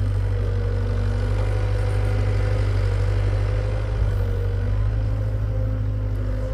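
Hitachi EX75UR excavator's diesel engine running steadily, a loud low drone with a higher tone above it that wavers and breaks off now and then as the machine works.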